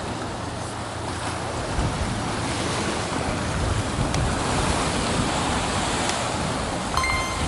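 Sea waves surging and breaking against coastal rocks, with strong wind buffeting the microphone: a steady rush of surf and a deep rumble. A brief high tone sounds near the end.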